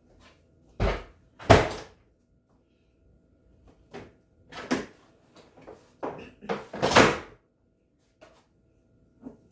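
A series of separate knocks and bumps of household objects being handled or moved, about half a dozen, the loudest about a second and a half in and about seven seconds in.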